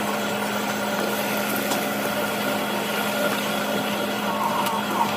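A machine or motor running steadily, with a constant hum and an even whirring hiss.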